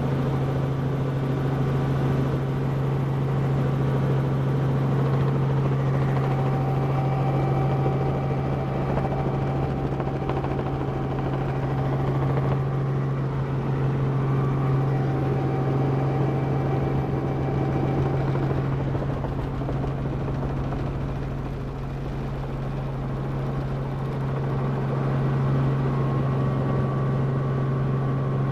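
Helicopter in flight, heard from on board: a steady drone of engine and rotor with a strong low hum that stays even throughout.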